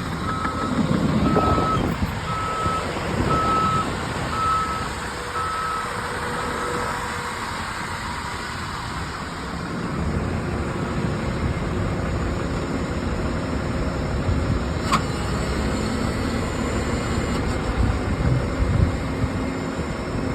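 Heavy earthmoving machines' diesel engines running under load, with a backup alarm beeping about once a second until it stops about seven seconds in, and a single sharp click later on.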